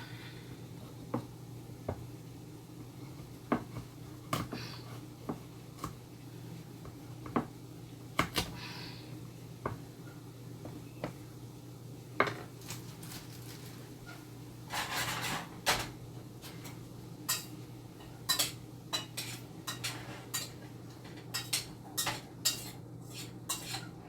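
Kitchen knife chopping tough raw carrots on a cutting board: irregular sharp knocks, sparse at first and more frequent in the second half, with a brief scrape about fifteen seconds in. A low steady hum runs underneath.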